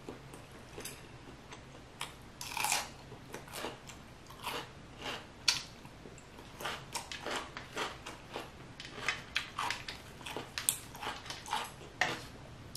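Close-miked chewing of a mouthful of spicy fire noodles and steak, irregular wet mouth clicks starting about two seconds in.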